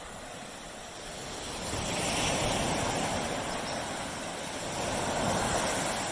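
Small waves breaking and washing up on a tropical beach. The surf swells twice, about two seconds in and again about five seconds in, then eases.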